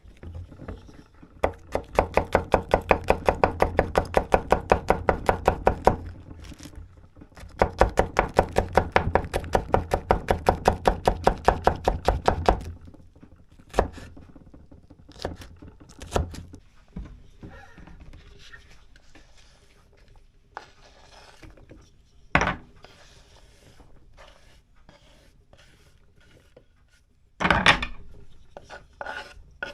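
Knife chopping fast on a cutting board, about five strokes a second, in two runs of several seconds each, followed by scattered separate knocks and clatters.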